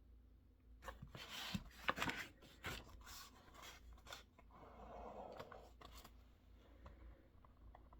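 Rustling, rubbing and scraping of things handled on a desk, with a few sharp clicks, for about five seconds, then a few faint light ticks.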